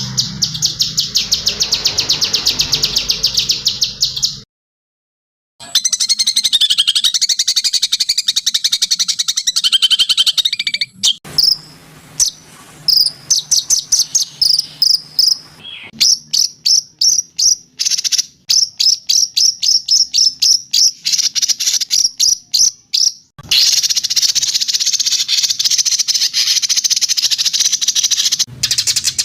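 Recorded songbird song spliced together: fast high trills and runs of sharp repeated chirps that change in pattern several times. The song drops out to silence for about a second, a little over four seconds in.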